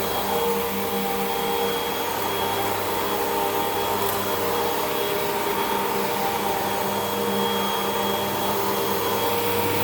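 Hoover WindTunnel 2 Rewind upright vacuum cleaner running steadily, its motor hum unchanging as it cleans the carpet.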